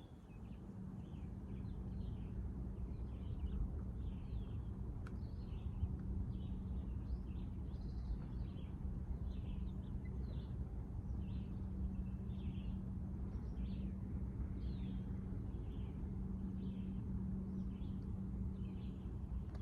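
A bird chirping again and again, short calls about once a second, over a steady low machinery hum with a constant droning tone.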